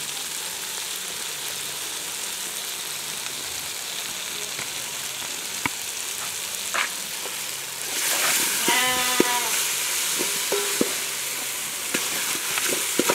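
Chopped spring onions and tomatoes frying in ghee in an aluminium pot: a steady sizzle that grows louder about eight seconds in, followed by scattered knocks of a wooden spoon against the pot. A farm animal bleats once, about nine seconds in.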